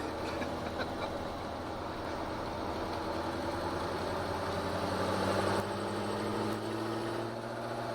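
Ford GT40's V8 engine running at low revs, heard from the cockpit, its pitch rising slowly over the last few seconds.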